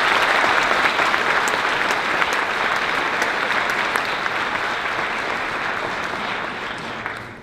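Audience in a large hall applauding, loudest at first and slowly tapering off, ending near the end.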